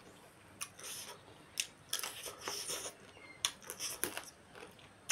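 A person chewing and smacking while eating chicken by hand, in a string of short wet smacks broken by several sharp clicks.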